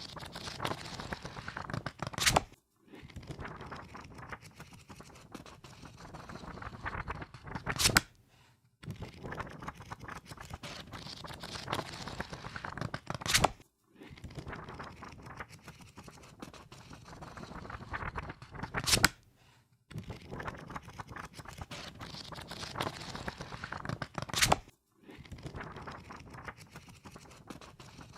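Book pages riffled quickly under the thumb: a fast papery flutter that builds up and ends in a sharp snap as the last page flicks free. This happens five times, about every five and a half seconds, with a brief pause after each snap.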